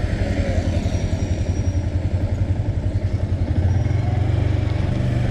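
Engine of a moving vehicle running steadily on the road, its pitch rising a little about three and a half seconds in.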